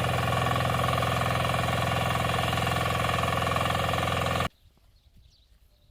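Small engine running steadily with a rapid pulsing beat, cutting off abruptly about four and a half seconds in, after which only faint sounds remain.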